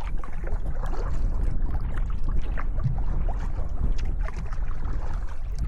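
Wind rumbling on the microphone over the splashing and lapping of water around a canoe on the move.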